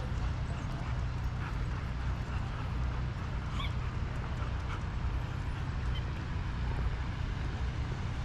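A dog whimpering and yipping a few times, short high calls, over a steady low rumble.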